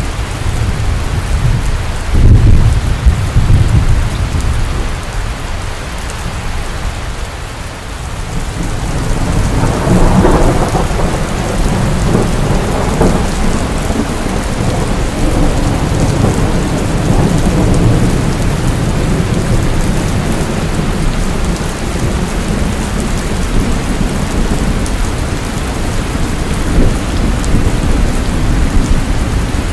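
Steady rain with thunder: a loud low clap about two seconds in, then a long rumble that swells around ten seconds and slowly dies away under the rain.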